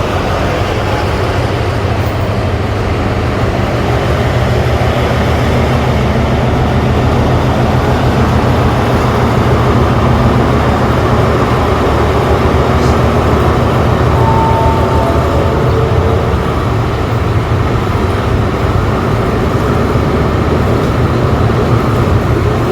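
Train running, heard from inside the passenger carriage: a steady, loud rumble of the diesel engine and wheels on the rails as the train gets under way.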